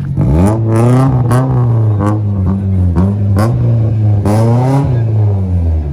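A car engine revved hard in a series of throttle blips, its pitch surging up and dropping back toward idle several times, with sharp cracks at the peaks of the revs.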